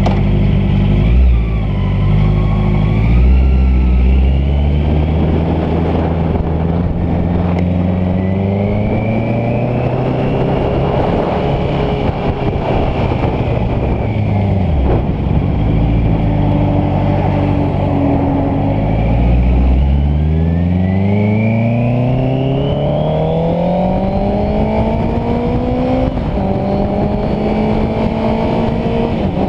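Honda CBR650F's inline-four engine under way, rising in pitch as it accelerates through the gears, dropping off about halfway through, then revving up hard before a gear change near the end, over a rush of wind noise.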